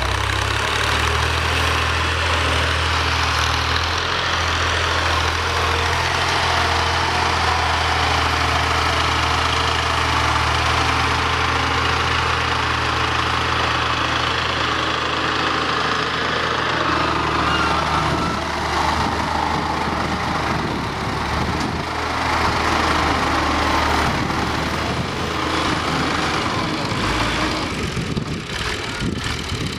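Engine running steadily with a constant hiss over it; its low hum shifts about seventeen seconds in and grows less even near the end.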